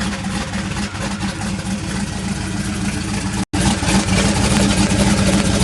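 Twin-turbo LT1 small-block V8 idling steadily. The sound drops out for a split second about three and a half seconds in and comes back louder.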